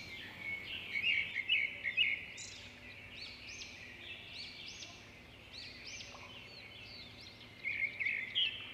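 Songbirds singing outdoors: a continuous stream of high, repeated chirping phrases, loudest about one to two seconds in and again near the end.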